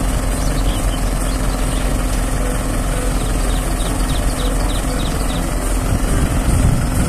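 Truck-mounted aerial lift's engine running steadily at idle while the boom holds the basket aloft.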